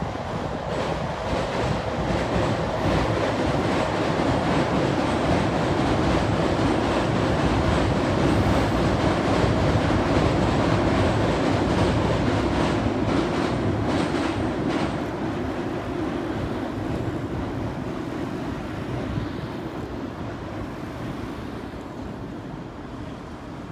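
A train crossing a river bridge: the steady running noise of its wheels on the rails builds over the first few seconds, holds loudest through the middle with a quick run of wheel clicks over rail joints, and fades away toward the end.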